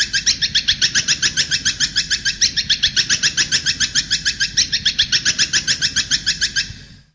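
Recorded songbird calling in a fast, even series of high chirps, about ten notes a second, of the kind played as a tutor song for a long-tailed shrike (cendet). The series stops with a quick fade near the end.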